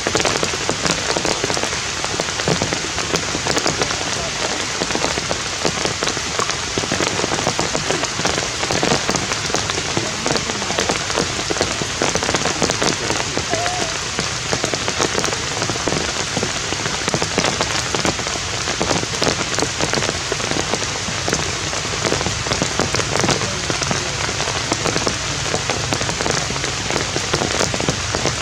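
Steady heavy rain falling and pattering on surfaces, a dense hiss of drops.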